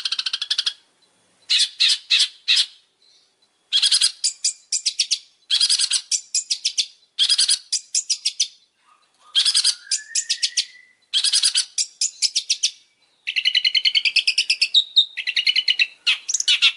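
Long-tailed shrike (cendet) singing: bursts of rapid, rattling repeated notes, each burst about a second long with short pauses between. A more tuneful, warbling phrase comes near the end.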